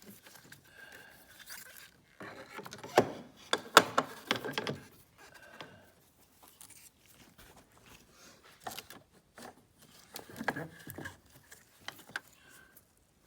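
Hands tucking a wiring harness and its cable into place in a car's engine bay: plastic and wire rustling, scraping and clicking. The loudest part is a flurry of sharp clicks and knocks from about two to five seconds in, with a smaller cluster later on.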